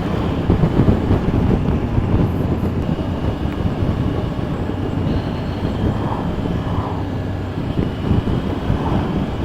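Motorcycle riding along at a steady speed: a continuous low engine drone mixed with wind and road noise.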